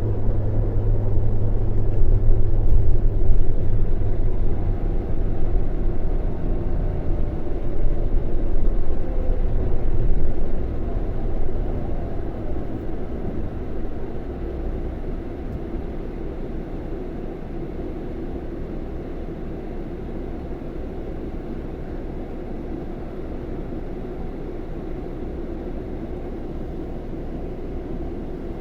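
Scania K400 bus's rear-mounted diesel engine running with a deep, heavy rumble. About ten seconds in it drops off sharply, then settles to a quieter, steady run.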